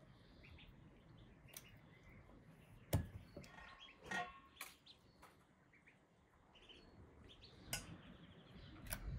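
Faint bird chirping, with a short run of chirps about four seconds in, and a few sharp clicks and knocks among it.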